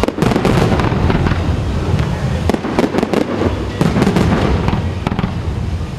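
Fireworks going off in quick succession: a dense run of bangs and crackles over a deep rumble, starting with a sharp burst.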